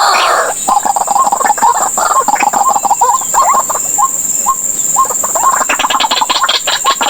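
White-breasted waterhen calling: a run of short, repeated notes, turning into a quick rattling series near the end.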